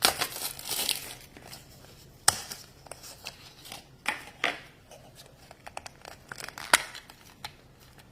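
Crinkly toy packaging being handled and torn open by hand: a burst of crinkling at the start, then scattered sharp crackles and snaps.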